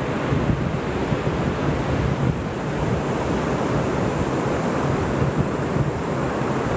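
Ocean surf washing steadily on a beach, with wind buffeting the microphone in low rumbles.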